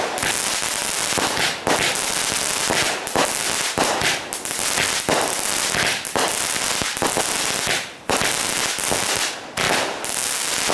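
A long string of firecrackers going off, a dense rapid run of cracks and bangs with hardly a gap, briefly thinning about eight seconds in.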